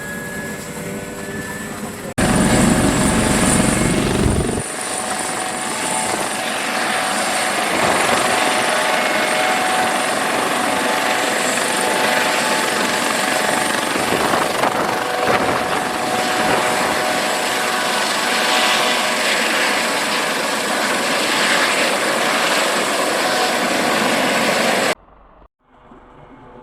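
Military helicopter flying close, its turbine and rotor running loudly and steadily. The sound jumps in abruptly about two seconds in and cuts off suddenly near the end.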